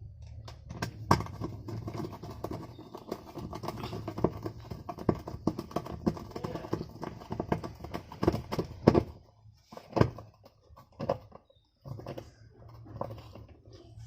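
Twin-tub washing machine's wash motor running with a steady low hum and irregular clattering knocks. It stops for about two seconds near the end, then starts again.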